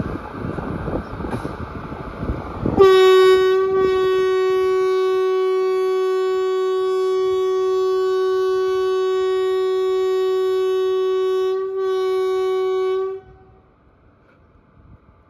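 WAP-4 electric locomotive's horn sounding one long steady blast of about ten seconds, with a brief break near the end before it cuts off suddenly. Before it, a few seconds of rumbling noise from the departing train.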